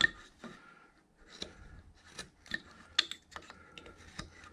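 Carving knife slicing and paring wood in short strokes while rounding carved fur: about nine quick cuts at irregular intervals, the first one the loudest.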